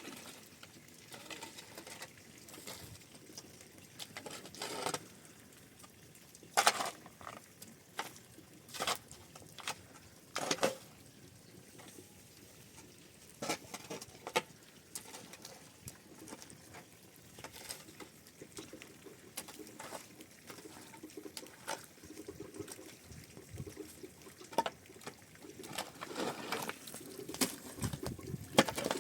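Irregular light clicks and knocks at no steady rhythm, a few of them sharper and louder, over a quiet background.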